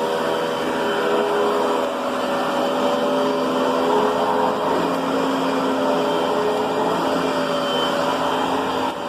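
Riccar Brilliance upright vacuum cleaner running steadily, its motor whine holding a nearly even pitch with slight shifts as it is worked.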